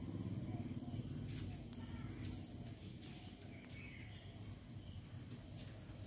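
Faint, high, short falling chirps of a bird, three of them a second or two apart, over a low steady background hum.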